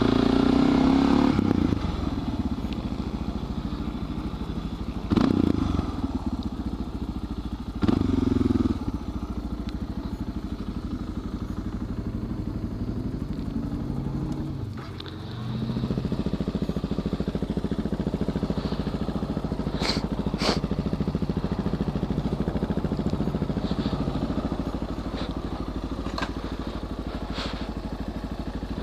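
Suzuki DR650's single-cylinder four-stroke engine running steadily at low speed, with a few short, louder revs early on and a brief drop in level about halfway through.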